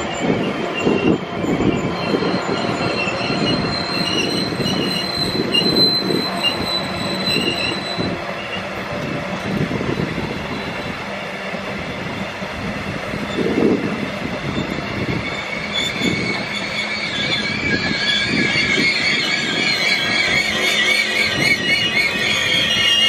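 Rovos Rail passenger coaches rolling past on the track: a steady rumble with uneven knocks from the wheels, and a high wavering squeal that grows stronger in the second half.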